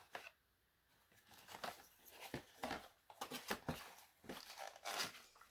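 Light rustling and crinkling with scattered small clicks, from decal sheets and small modelling supplies being handled and put into a toolbox.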